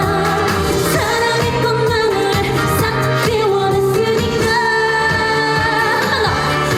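Korean trot song performed live: a female singer holding and bending long sung notes over a band backing track with a steady beat.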